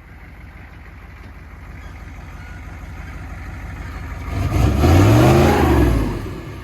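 Plow truck's engine running with a low steady rumble that slowly grows louder, then revved once about four and a half seconds in, its pitch rising and falling back over roughly two seconds.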